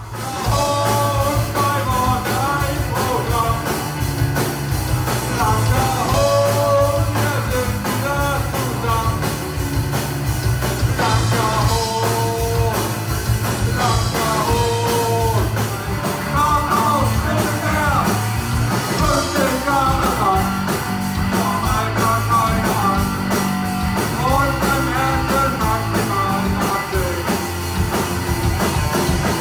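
Punk rock band playing live, with electric guitar and a singer's voice over the band; the music starts abruptly at the opening.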